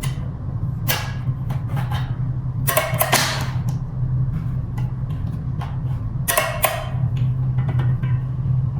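Metal parts clicking and clinking as a scooter's folding-joint bolt and its spring are worked back into place, a few short ringing clinks among lighter taps, over a steady low hum.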